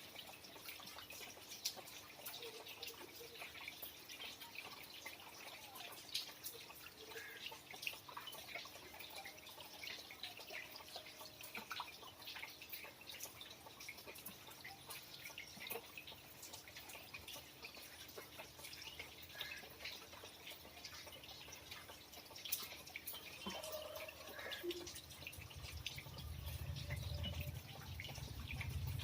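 Rain dripping: a dense, irregular scatter of faint drops and ticks, with a low rumble building in the last few seconds.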